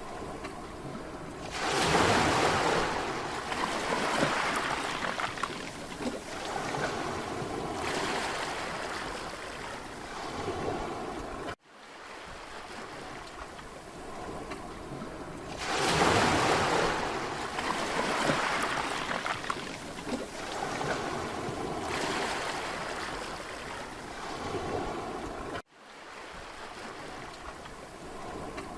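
Mediterranean sea waves breaking and washing up on a beach, the surf swelling every few seconds. The sound cuts out for an instant twice.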